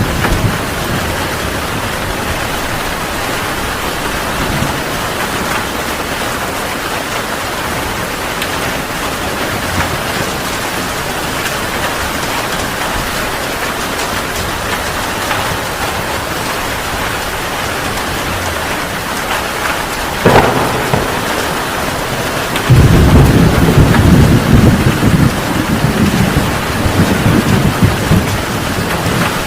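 Heavy rain falling steadily in a thunderstorm. About two-thirds of the way through, a sharp thunder crack is followed a couple of seconds later by loud, deep rolling thunder that lasts to the end.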